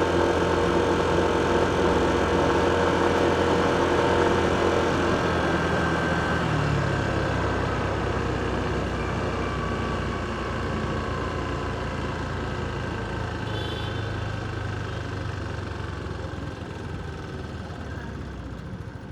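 Motor vehicle engine running steadily in street traffic, with a low hum that shifts about six seconds in and slowly fades.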